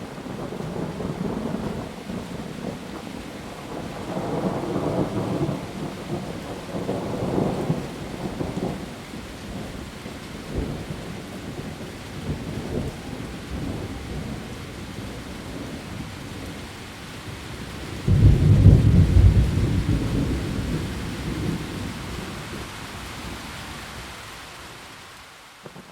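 Heavy rain falling steadily on leaves, with rolls of thunder: low rumbles build and fade in the first several seconds, and a louder, deep thunderclap comes about two-thirds of the way through, rolling away over the next few seconds.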